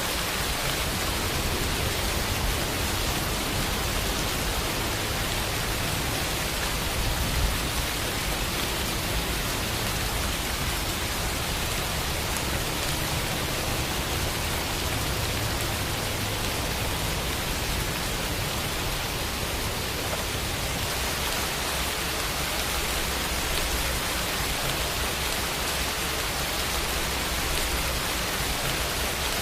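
Steady rain falling, an even hiss with a low rumble underneath and a slightly louder moment about seven seconds in.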